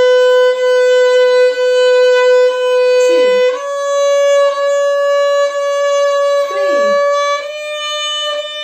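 Violin playing a simple beginner tune on the A string in long held bowed notes, with a bow change about once a second. The pitch steps up about three and a half seconds in and changes again near the end.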